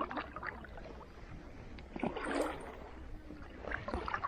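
Water splashing and trickling close beside an inflatable kayak, in a few short splashes: one at the start, a longer one about two seconds in, and several more near the end.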